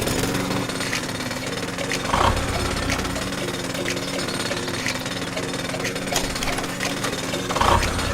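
Small engine running steadily with a fast, even rattle, rising briefly in loudness about two seconds in and again near the end.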